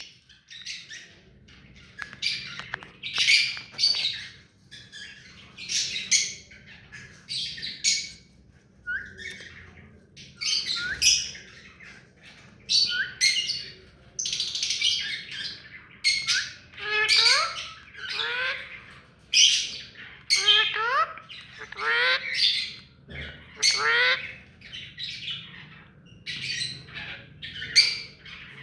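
Rose-ringed (ringneck) parrot calling over and over: short, harsh squawks about once a second, with a run of sweeping, whistled glides in the middle.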